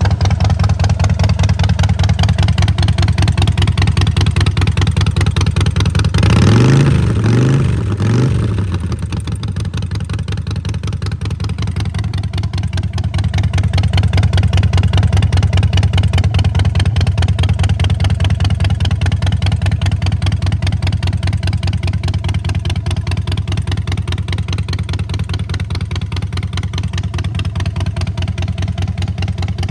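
Harley-Davidson Softail Rocker C's Twin Cam 96B V-twin engine idling through its exhaust. About six seconds in it is revved three times in quick succession, then settles back to a steady idle.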